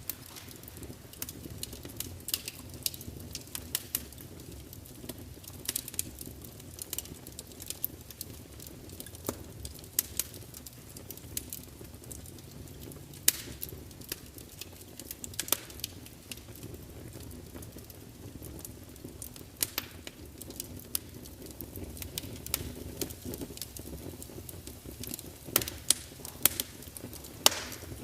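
Log fire burning in a large fireplace: a steady low rumble of the flames with irregular sharp crackles and pops from the wood, several louder snaps near the end.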